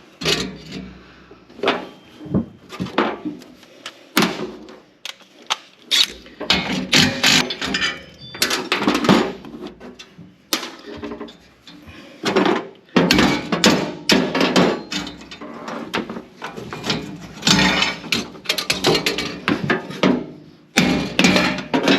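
Hand tools and metal parts clinking, knocking and scraping in irregular bursts as the turbocharger's clamps and hoses are worked loose.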